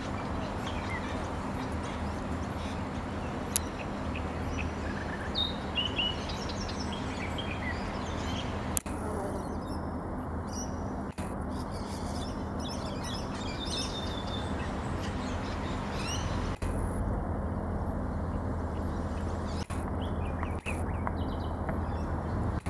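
Small birds chirping in short, scattered calls over a steady background noise with a low hum.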